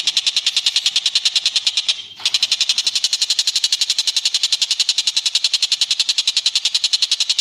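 A bird calling in a fast, even, high-pitched trill of about ten notes a second. It breaks off briefly about two seconds in, then runs on unbroken.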